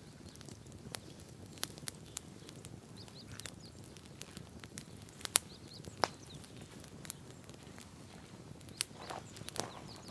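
Wood campfire crackling: irregular sharp pops and snaps, with two louder pops about five and six seconds in, over a low steady background.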